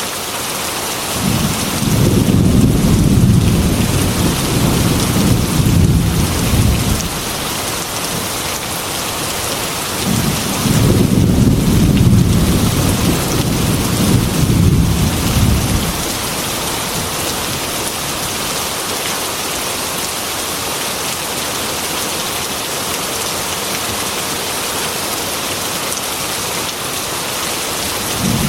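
Heavy rain falling steadily, with thunder rumbling low twice, each roll lasting about five seconds, and a third roll beginning at the very end.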